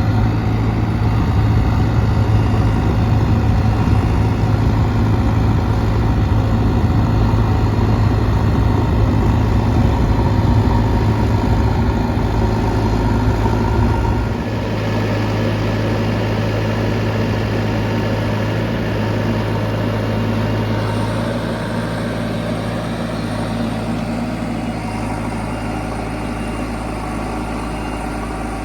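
Heavy diesel engine running steadily. About halfway through, its sound steps down a little, quieter and with less low rumble.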